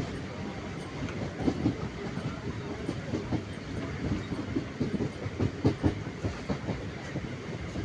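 Train running on the rails: a steady rumble with many irregular clacks and knocks from the wheels and carriages.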